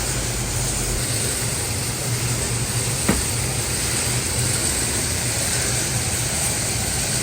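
Steady running noise of workshop machinery, an even whir with a low hum, and a single sharp click about three seconds in.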